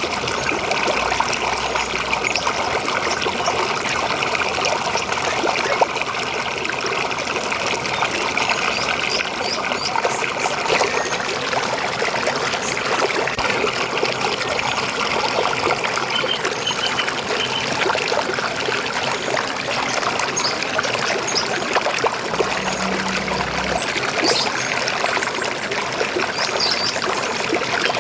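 River water flowing and trickling steadily, with a few short, faint bird chirps over it.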